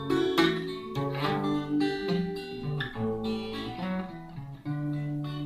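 Acoustic guitar playing alone, a run of plucked notes and chords over held bass notes, as the instrumental break between verses of a sung author's song.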